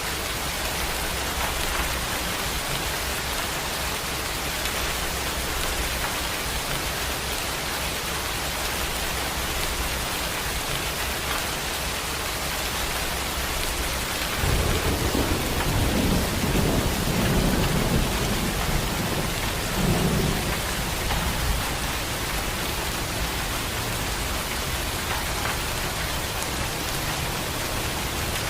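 Heavy rain falling steadily, with a long roll of thunder rumbling in about halfway through and fading over several seconds.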